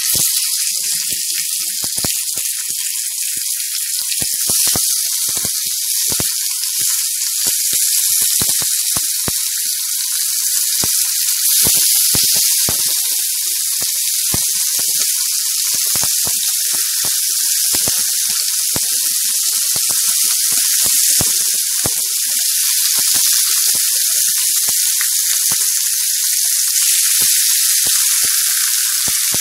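Raw chicken thighs frying in hot oil in a pan: a loud sizzle that starts suddenly as the first piece goes in, with frequent spattering pops.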